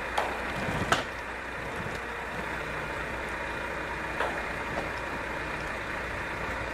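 Heavy truck diesel engines running steadily at a vehicle recovery, with a few short metallic knocks, the loudest about a second in.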